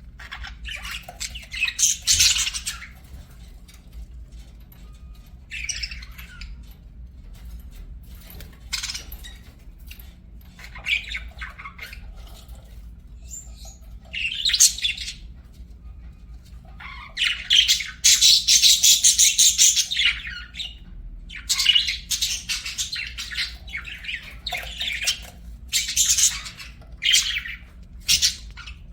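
Budgerigars chattering and warbling in irregular bursts of high, scratchy chirps and squawks, with the longest, loudest stretch a little past the middle.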